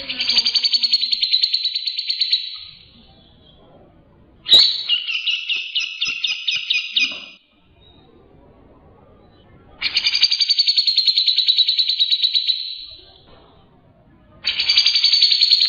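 Cucak jenggot (grey-cheeked bulbul) singing: four loud, rapid chattering trills of about two and a half seconds each, with short pauses between them. The second phrase has slower, more separate notes.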